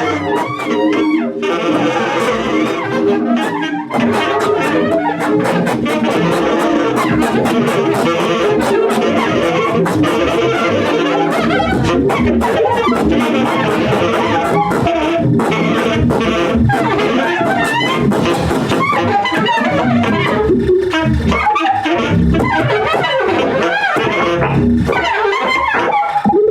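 Free improvisation for two saxophones and live electronics: dense, layered saxophone tones mixed with electronic sounds, with many sharp clicks and pops throughout.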